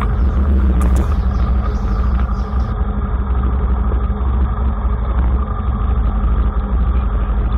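Honda RS150 motorcycle's single-cylinder engine running at low revs and idling as the bike rolls in and stops, a steady low rumble.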